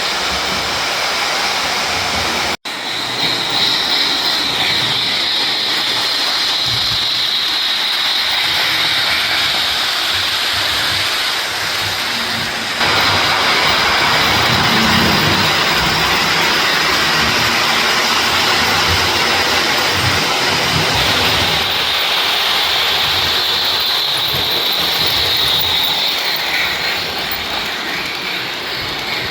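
Model train (Lionel MPC-era Chessie Steam Special with passenger cars) running on a layout: steady rolling of wheels on track with a hissing, whirring run. The sound drops out for an instant a few seconds in and gets a little louder about halfway through.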